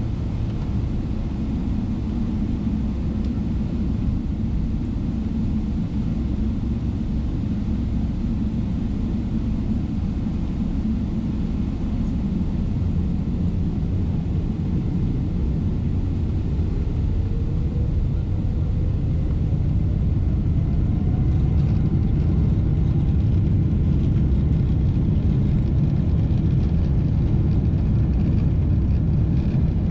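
Boeing 777-300ER cabin noise: a steady low rumble, with a faint rising whine past the middle as the GE90 engines spool up, after which the rumble grows louder.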